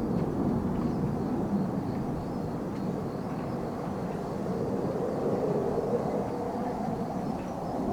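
Distant military jet engine noise: a steady rumble.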